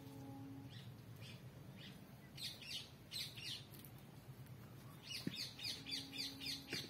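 Small birds chirping: quick series of short, falling chirps, a burst about two and a half seconds in and a denser run near the end.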